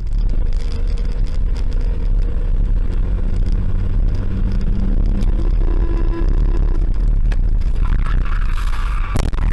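Car driving, with a steady engine and road rumble heard throughout. A few sharp knocks come near the end.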